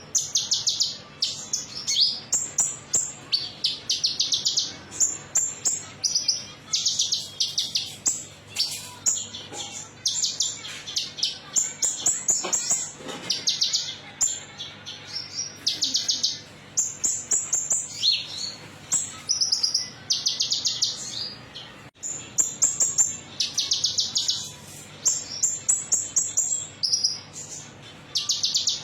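A small songbird, the one Indonesian bird-keepers call a konin, singing fast trills of high, metallic-sounding repeated notes. The phrases come one after another with only short gaps between them. This is a recorded lure track played to prompt a caged bird to sing.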